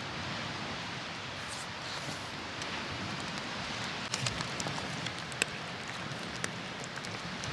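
Wood campfire crackling: a steady hiss with a few sharp pops and snaps between about four and six and a half seconds in.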